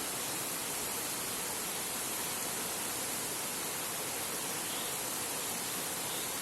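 Heavy rain falling steadily on a tin roof, an even hiss with no thunder in it.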